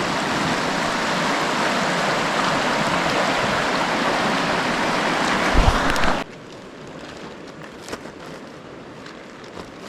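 Steady rush of flowing creek water, cutting off abruptly about six seconds in to a much quieter background with a few faint clicks.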